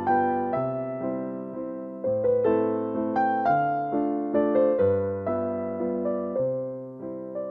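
Background music: a gentle solo piano waltz, notes struck and fading, with a bass note at the start of each bar.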